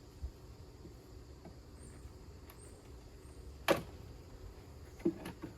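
Wooden beehive frames and a metal hive tool knocking and scraping as frames are pried loose in the hive box. The frames are stuck together with propolis. There is one sharp knock about three and a half seconds in and two more near the end.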